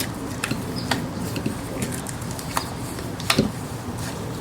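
Scattered light clicks and taps of fork seal parts being handled and fitted on a motorcycle fork tube, the loudest a little past three seconds in.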